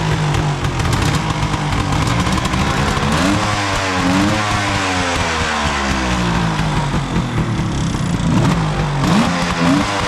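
1972 Suzuki GT750's liquid-cooled two-stroke triple running after a cold start, with the throttle blipped a few seconds in and again near the end so the revs rise and fall back to idle.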